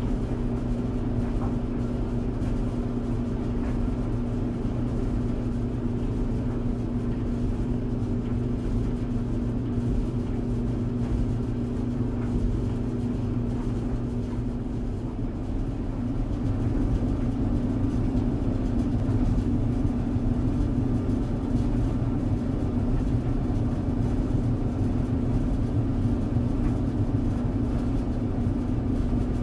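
Tumble dryer running: a steady motor hum over the rumble of the turning drum. About halfway through the hum shifts slightly and gets a little louder.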